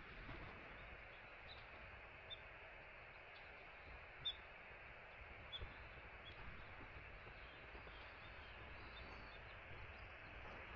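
Quiet outdoor ambience with a small bird giving short, high single chirps now and then, the clearest about four seconds in.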